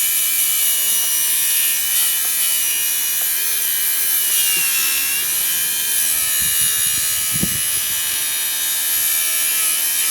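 Opel Z18XER four-cylinder petrol engine being turned over to check its compression, heard as a few low pulses about six and a half to seven and a half seconds in, under a steady high-pitched electrical buzz throughout.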